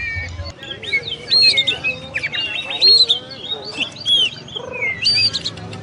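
Oriental magpie-robin (kacer) singing a rapid, varied run of whistles and chirps, the notes sliding up and down in pitch without a break.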